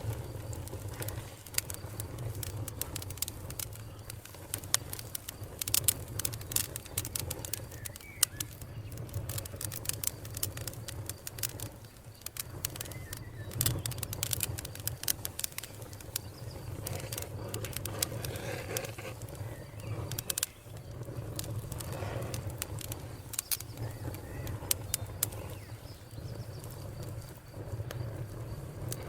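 Wood fire crackling, with irregular sharp pops and snaps from burning logs over a low steady rumble.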